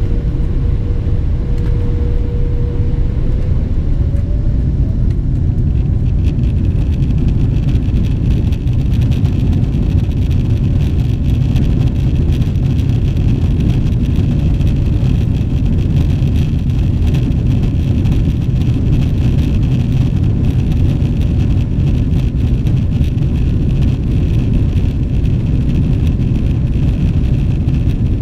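Boeing 777-300ER's GE90 engines heard inside the cabin, spooling up to takeoff power: a tone rises a few seconds in, then a higher whine joins the loud, steady rumble of the takeoff roll.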